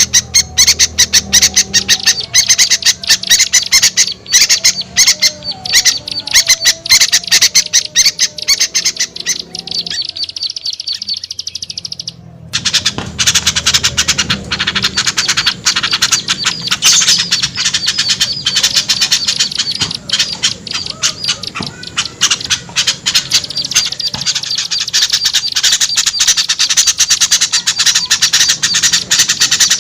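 A dense, noisy chorus of small songbirds chattering and squawking rapidly, the agitated calls used as a lure to bring small birds down. The chatter thins briefly about ten seconds in, then resumes at full density.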